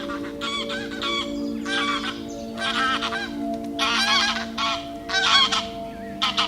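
A bird calling over and over in a quick series of short, harsh calls, over soft background music with long held notes.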